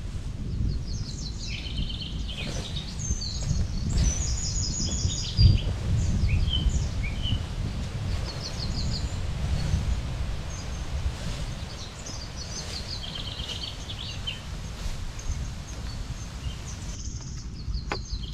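Small songbirds chirping and trilling in short, repeated phrases over a steady low rumble.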